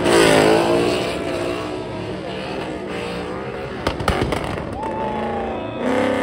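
A car's engine revving hard and wavering in pitch as it spins its tyres in a smoky burnout. A few sharp cracks come about four seconds in.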